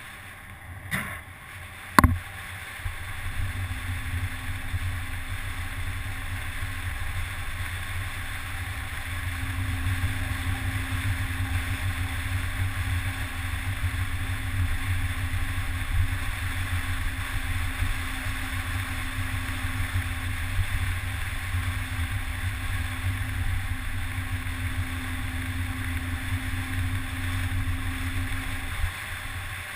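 Steady wind rumble on a moving microphone, with a faint steady hum over most of it. Two sharp knocks come about a second and two seconds in.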